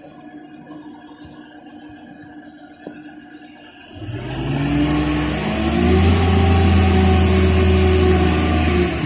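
A heavy engine idling low, then revving up about four seconds in and held at high revs, dropping back near the end.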